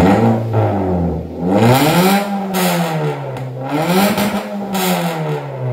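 Toyota Calya / Daihatsu Sigra engine revved through a full aftermarket racing exhaust with a racing muffler. The throttle is blipped three times, the pitch climbing and falling back each time.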